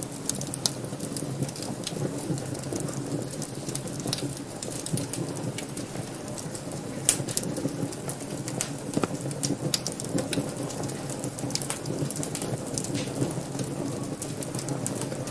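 Wood fire burning in a fireplace: a steady low rush of flames under frequent sharp crackles and pops, one louder pop about seven seconds in.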